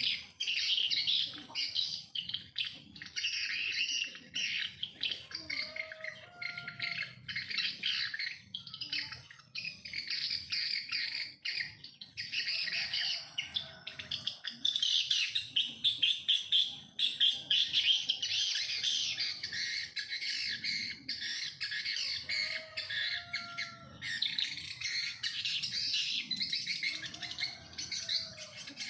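Many small birds chirping and chattering without a break, a dense high-pitched twittering, with an occasional lower whistled note gliding in between.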